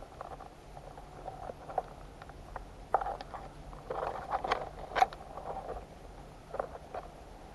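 Irregular footsteps crunching on the forest floor, with sharp clicks and snaps, the loudest about three and five seconds in.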